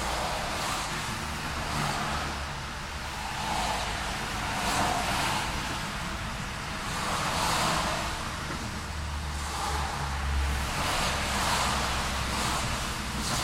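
Street traffic: several cars pass one after another, each swelling and fading, over a steady low rumble of traffic.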